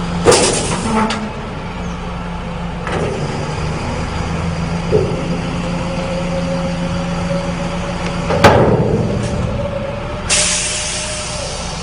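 Truck engine running steadily, with several sharp metallic clanks and a long hiss of released air near the end, like an air brake.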